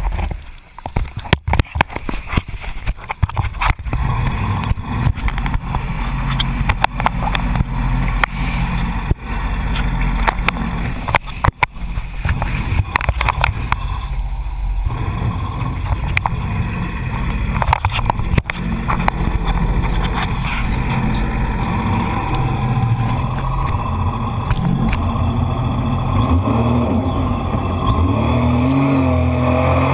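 Jet ski engine running under way, with repeated sharp knocks and buffeting over it through the first half; the engine note steadies and then rises near the end.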